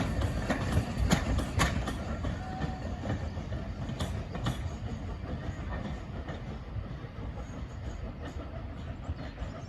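Train running on the rails: a steady rumble with wheels clicking over rail joints, several clicks in the first two seconds and a pair about four seconds in, the sound slowly fading.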